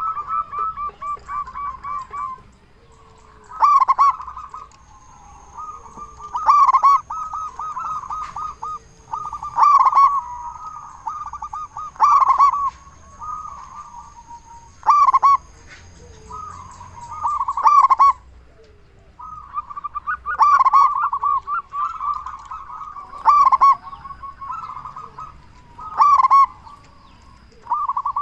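Zebra dove (perkutut) cooing in its typical song. A loud accented call comes about every two and a half to three seconds, with fast rolling coos between the calls.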